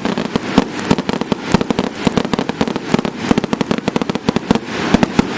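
Fireworks going off in a rapid barrage of sharp pops and crackles, many per second.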